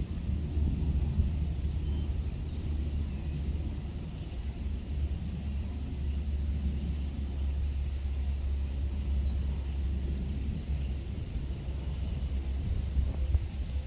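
Steady low rumble of a distant aeroplane passing overhead, heard against outdoor wind.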